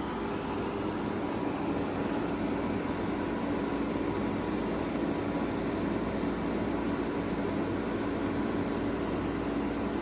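Grelife 8000 BTU portable air conditioner running on high in cooling mode: a steady rush of air from its fan with a steady low hum underneath.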